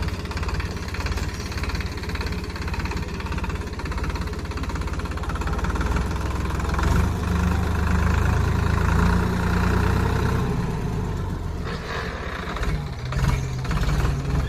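Tractor engine running steadily, growing louder about halfway through and easing off again, with a few knocks near the end.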